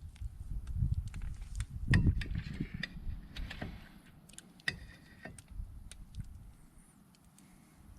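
Scattered light clicks and clinks over low bumps, the loudest about two seconds in, quieter in the second half: the handling noise of hard objects being moved and set down.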